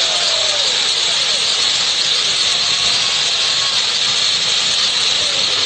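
Firework fountains showering sparks, a steady dense hiss with no bangs.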